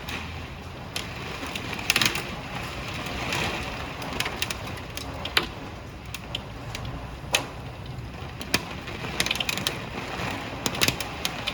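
Hailstones striking hard surfaces as irregular sharp clacks, some loud and some faint, over a steady hiss of the storm's rain.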